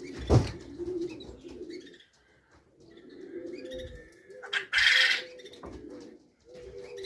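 Racing pigeons cooing, low and repeated, with a sharp knock just after the start and a brief loud rustle about five seconds in.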